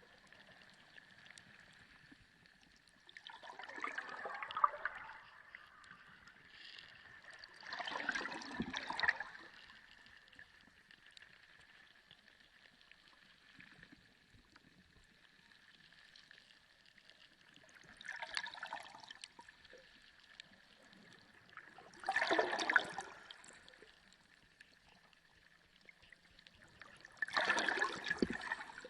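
Underwater ambience: water gurgling and churning in five separate swells over a faint steady high-pitched tone.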